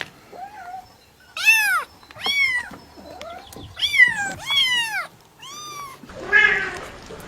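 Cat meowing repeatedly: about six loud, high-pitched meows, each rising then falling in pitch, with a fainter lower meow near the start.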